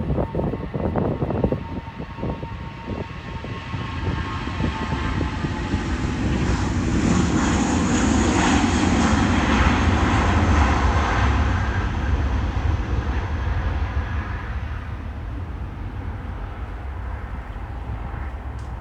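Jet airliner taking off, its engine roar swelling to a peak about ten seconds in as it passes and then slowly fading away.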